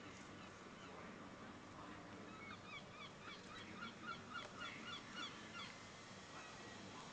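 A bird calling in a quick series of short, pitched calls, about three a second, for roughly three seconds starting a couple of seconds in. A faint steady background hum runs under it.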